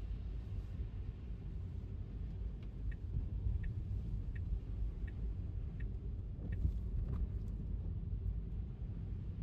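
Tesla electric car driving on a wet road: steady low road and tyre rumble. A run of light, evenly spaced ticks, about one every three-quarters of a second, comes in about two and a half seconds in and stops near the seventh second.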